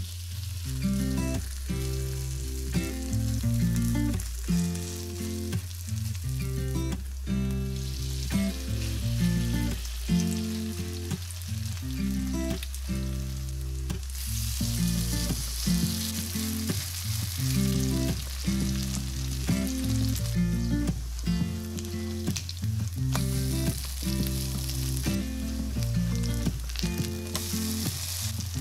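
Zucchini pancake batter sizzling and frying in hot olive oil in a non-stick pan, the sizzle growing louder about halfway through as more batter goes into the pan. Soft background music with a steady bass plays under it.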